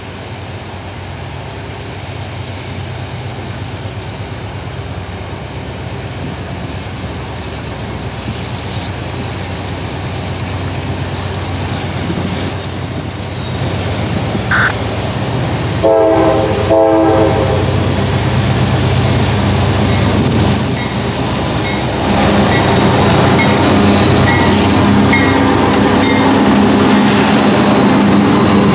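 CSX diesel freight locomotives on a loaded rock train approach with a steady engine rumble that grows louder. About halfway through comes a short horn blast. Near the end the locomotives pass close, louder, with engine rumble and wheel noise on the rails.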